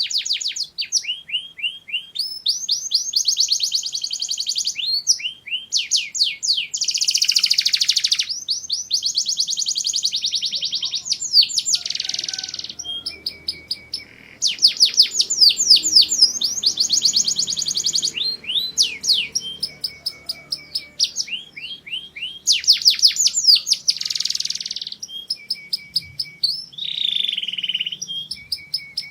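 Domestic canary singing: long phrases of fast, high-pitched trills and rolling repeated notes, broken by brief pauses between phrases.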